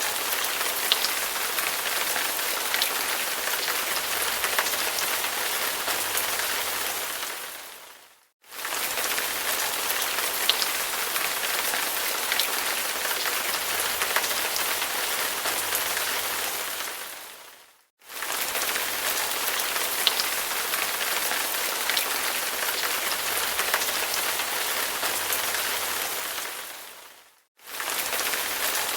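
Steady rain falling, with scattered drops ticking. It fades out and quickly back in about every nine seconds, three times.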